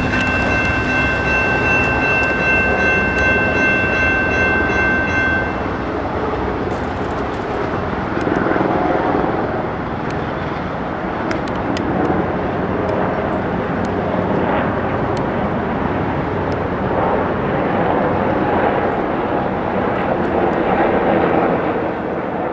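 Amtrak GE P42DC Genesis locomotive #42 approaching on its V16 diesel with its multi-chime horn held as one steady chord, cutting off about five seconds in. The train then rolls past with loud, steady engine and wheel noise and a scattering of sharp clicks.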